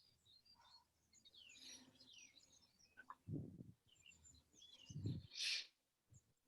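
Faint bird chirps, with two soft low thuds about three and five seconds in.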